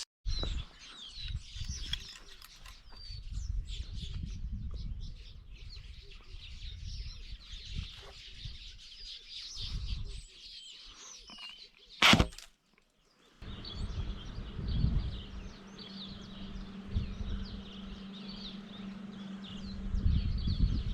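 Small birds chirping and calling over a low rumble, with one sharp, sudden noise about twelve seconds in.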